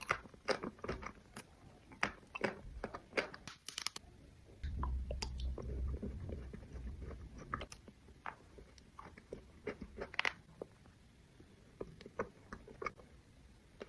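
Close-miked chewing and crunching of a salted caramel sweet, with many small sharp crackles and bites. A low rumble lasts about three seconds around the middle.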